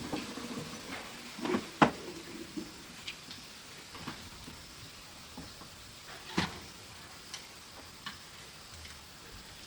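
Scattered light knocks and clicks of objects being handled, a dozen or so irregular taps with the loudest two about two seconds in and past six seconds.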